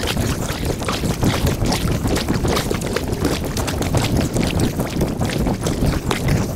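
Kayak paddling played back sped up: paddle strokes and water splashing and dripping in a quick, dense clatter.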